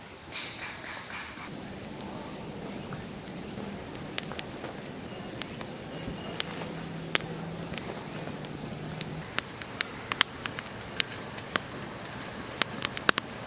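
Wood campfire crackling with sharp pops that come more often in the second half, over a steady high chirring of insects.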